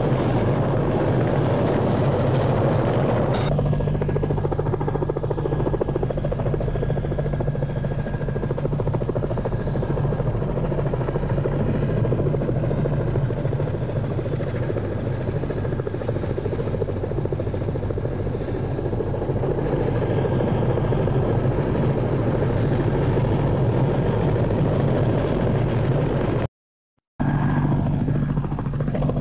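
Helicopter running steadily, its rotor making a rapid, continuous chopping drone. The sound cuts out briefly once near the end.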